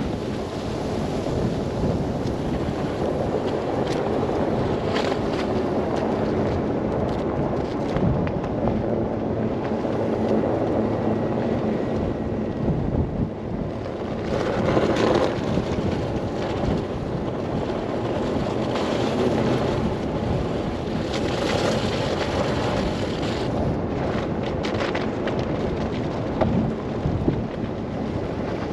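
Wind blowing steadily in a snow blizzard, with stronger gusts swelling about halfway through and again a little later, over the low rumble of a car driving on a snowy road.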